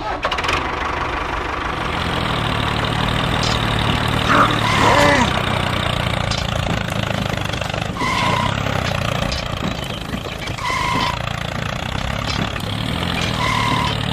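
A small motor on a miniature road-building machine running steadily with a low hum. Short beeps sound three times, a few seconds apart, in the second half.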